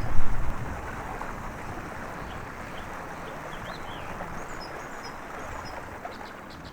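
A steady rushing hiss with a few faint, high bird chirps in the middle; a brief low rumble at the very start.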